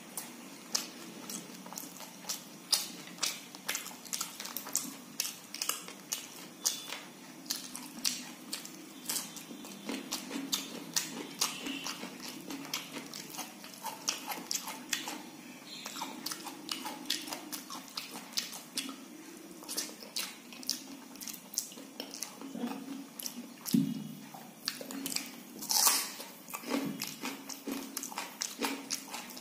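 Close-miked mouth sounds of a person eating soft khichdi and fried fish by hand: wet chewing and lip smacking in quick, irregular clicks, several a second, with a few louder bites near the end.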